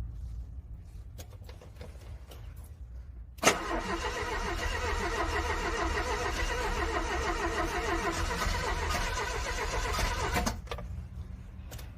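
Car starter cranking a cold engine: a click about a third of the way in, then a steady rhythmic cranking for about seven seconds that stops without the engine settling into a run. A low steady rumble lies underneath.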